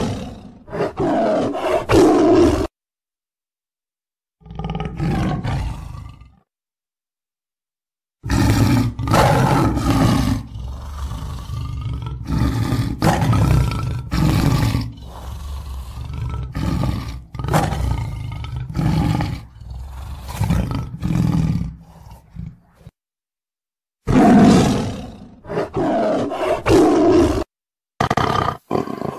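Tiger roaring in a run of separate bouts, some short and one of about fifteen seconds, with abrupt cuts to dead silence between them.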